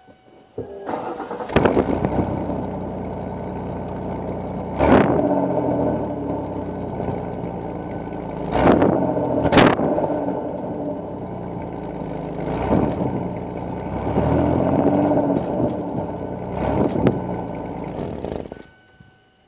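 A 1993 Ford Taurus GL's V6 engine running through an exhaust with holes cut into it, revved in several short blips. The engine sound comes in abruptly about a second in and cuts off shortly before the end.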